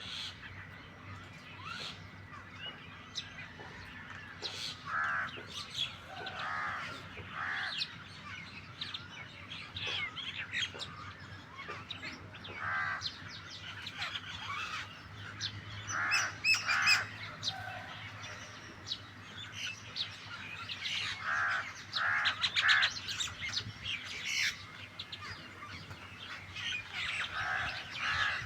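Starlings and mynas calling together: overlapping harsh, scratchy calls and chirps in bursts every second or two, loudest around the middle and again a little later.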